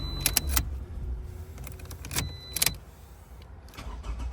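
Key ring jangling and sharp clicks as the newly rekeyed key is worked in the Toyota RAV4's lock, in a few short clusters: one near the start and another about two seconds in.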